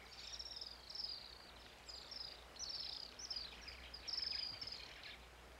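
Faint birdsong: a run of short, high chirps, each falling in pitch, repeated over about five seconds.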